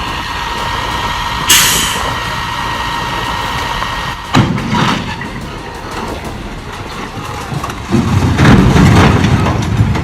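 Truck noise: a steady whine for the first few seconds, broken by a short sharp hiss about a second and a half in. A knock follows about four seconds in, and a loud low rumble sets in near the end.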